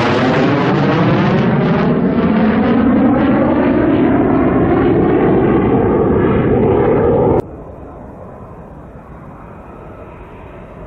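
F-35 Lightning II fighter jet passing close by, its Pratt & Whitney F135 turbofan loud, with a rising, swirling sweep in the tone as it moves away. About seven seconds in the sound cuts off abruptly to a much quieter, steady distant rumble.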